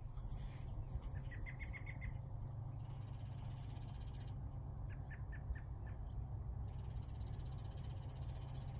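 A small bird calling in two quick runs of short chirps, about a second in and again about five seconds in, over a steady low rumble.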